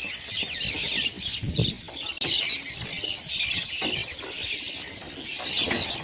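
A flock of birds calling together: many overlapping chirps and chatter, with a few low thumps in between.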